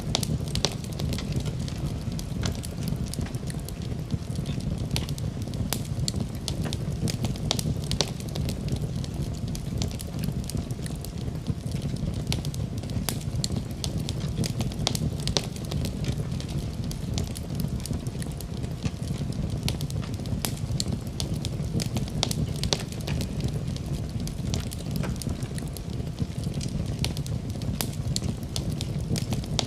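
Wood fire crackling in a fireplace, with frequent short sharp pops and snaps scattered irregularly over a steady low rumble.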